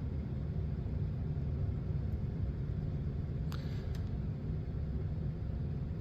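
Steady low rumble of a vehicle in motion, heard from inside the cab, with one short higher-pitched sound about three and a half seconds in.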